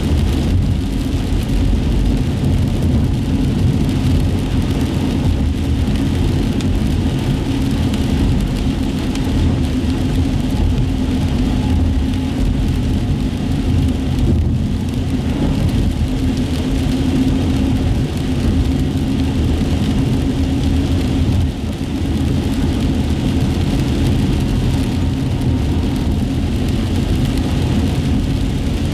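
Inside a moving car on wet city streets: steady engine and road rumble, with the hiss of tyres on wet pavement. The sound eases briefly about three-quarters of the way through.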